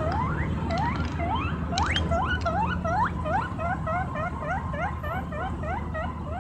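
Guinea pig wheeking: a rapid series of short, rising whistled squeals, at first about two a second and speeding up to about four a second, each call shorter. A steady low hum runs underneath.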